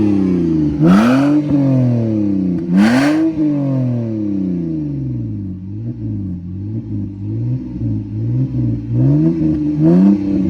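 BMW 328i (E90) straight-six running with its muffler deleted, revved up three times in quick succession, each time the pitch climbing fast and sliding back down over a second or two. It then runs lower and steadier before one more rev near the end.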